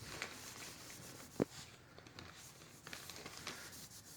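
Faint rubbing and handling noises, a cloth wiping fingerprints off a new motorcycle exhaust, with scattered light ticks and one sharp click about a second and a half in.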